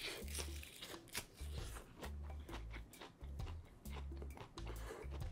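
Crunchy chewing of crispy, oven-reheated breaded fried food, with sharp crunches coming irregularly, over background music with a steady bass beat.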